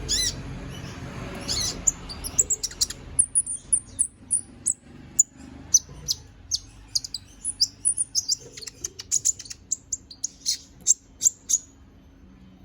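A konin (kolibri ninja), a small sunbird, singing energetically: a fast run of short, sharp, high-pitched chirps and twitters. A brief rush of noise comes just before the song starts, and the song stops shortly before the end.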